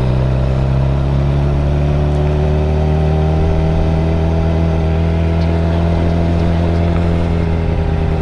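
2013 Suzuki GSX-R 600's inline-four engine idling steadily, its idle speed easing down slightly.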